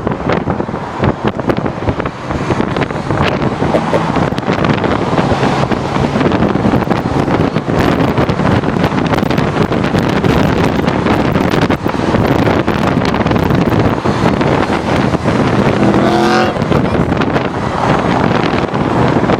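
Cars driving along a road: steady engine and tyre noise, with wind buffeting the microphone. A short wavering tone cuts through about sixteen seconds in.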